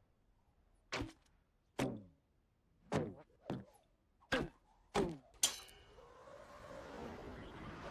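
A series of seven short thuds or knocks at uneven spacing over about five seconds, each dying away quickly, followed by a faint steady hiss.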